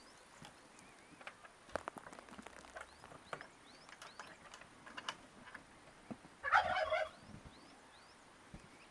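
A turkey gobbling once, a short rapid rattling call about six and a half seconds in. Faint short rising bird chirps and scattered light clicks are heard around it.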